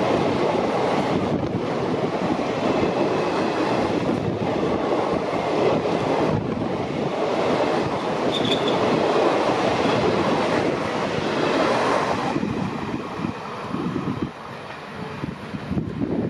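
Passenger train coaches passing close by at speed: a steady rattle and rumble of wheels on the rails, which drops off about thirteen seconds in.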